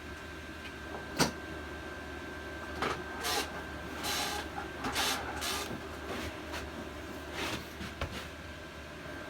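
About six short hissing bursts of blown air, cleaning debris off a small engine, with a sharp click about a second in. A steady hum from a diesel heater runs underneath.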